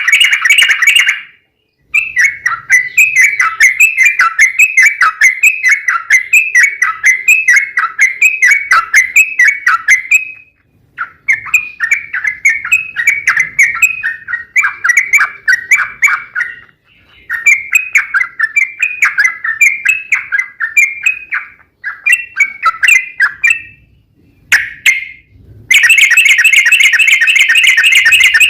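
Yellow-vented bulbul (trucukan) song: loud runs of fast, repeated chirping notes, broken by a few short pauses, with a dense unbroken roll near the start and again near the end.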